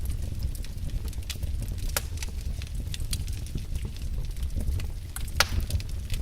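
Wood fire in a fireplace crackling: irregular sharp pops and snaps over a low rumble of burning, with one louder pop about five seconds in.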